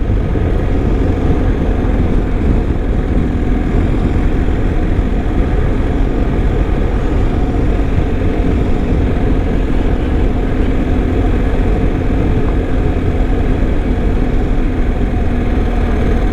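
Adventure motorcycle riding at a steady speed: an even engine hum under a dense low rush of road and wind noise, unchanging throughout.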